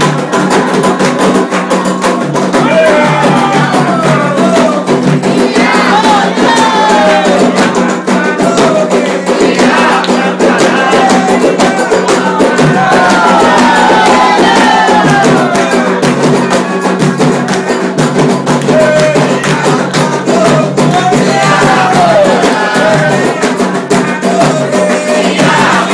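Candomblé ritual music: hand drums and percussion keeping a steady, dense rhythm while voices sing chants to the orixás.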